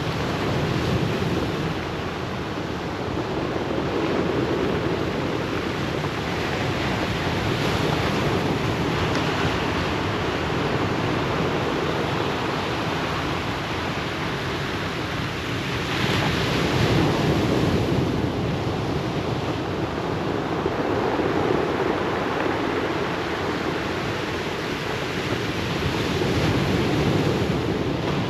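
Ocean waves breaking and washing over a pebble beach, the surf swelling and easing every few seconds, with its biggest surge about two-thirds of the way through.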